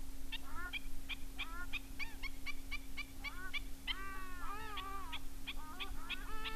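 Birds calling in a quick series of short pitched calls, about three or four a second, with longer arched calls overlapping from about four seconds in.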